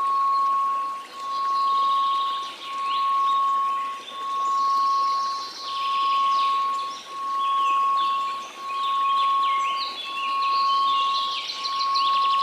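A steady synthesized 1098 Hz tone that swells and fades about every one and a half seconds, over a faint hiss. Birdsong chirps and trills sound higher up.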